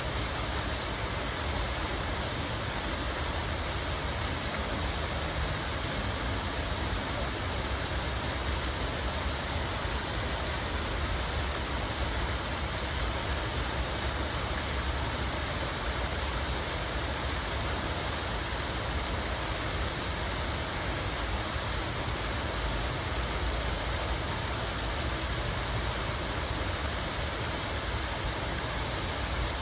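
Running water rushing steadily and evenly, with a constant low rumble underneath.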